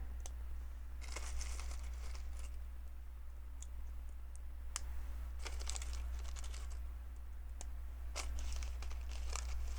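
LEGO bricks and plates being handled and fitted together: scattered sharp little plastic clicks and short rattling clusters of pieces, over a steady low hum.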